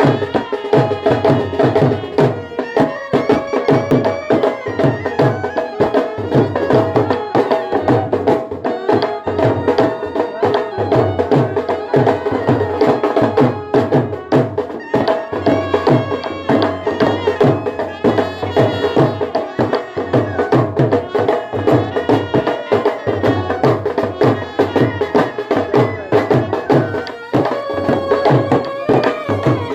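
Brass band music: horns carrying a folk melody over a steady drumbeat.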